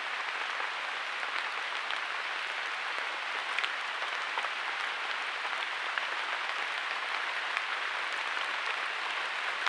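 Steady rain falling: a dense, even hiss dotted with small drop ticks.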